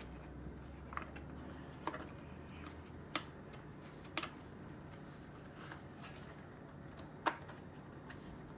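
A few scattered sharp clicks and taps, about five over several seconds, as the cover is fitted back onto an RC car's receiver box.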